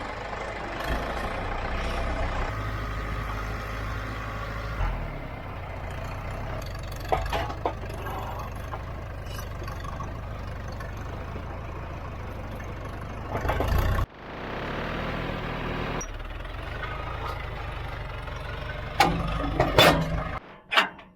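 An engine running steadily at a low idle, with a few sharp knocks and clatters over it. It cuts off abruptly about two-thirds of the way through, then comes back.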